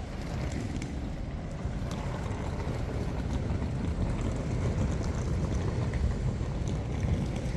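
Steady low rumble of a moving vehicle, slowly getting a little louder.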